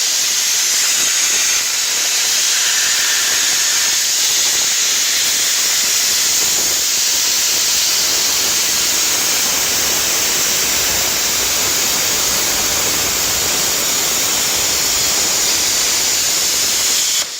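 A steady, loud hiss with no rhythm or pitch, holding level throughout.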